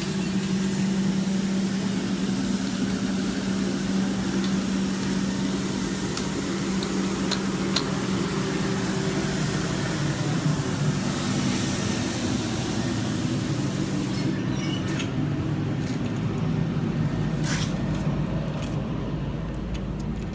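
Street sweeper running close by: a steady engine hum under a spraying, brushing hiss. The hiss thins out about two-thirds of the way through, and a few light clicks come near the end.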